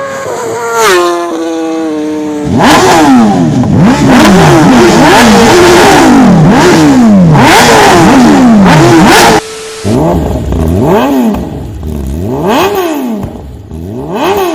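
Inline-four superbike engines revved hard again and again, the pitch rising and falling with each throttle blip. The sound cuts off suddenly about nine seconds in, then the revving picks up again more quietly.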